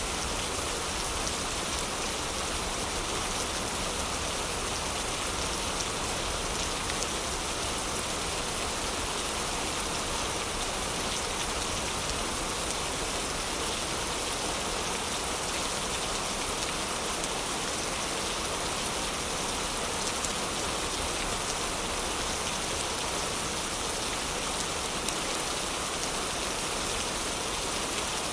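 Heavy rain falling steadily, an even, unbroken hiss of dense raindrops.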